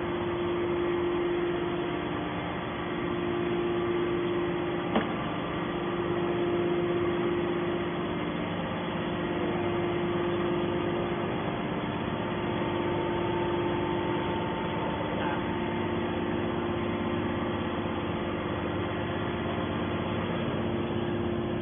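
Hydraulic scrap metal baler running: a steady hum from its motor and hydraulic pump, with a single sharp knock about five seconds in.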